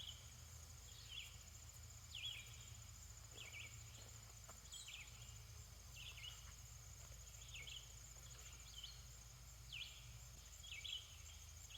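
Faint outdoor ambience: a steady, high insect trill, with a bird repeating a short, falling chirp about once a second.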